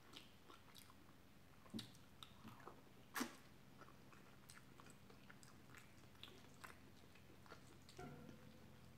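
Soft mouth sounds of a person chewing a mouthful of chicken tikka masala and rice: faint, scattered wet clicks, with two louder smacks about two and three seconds in.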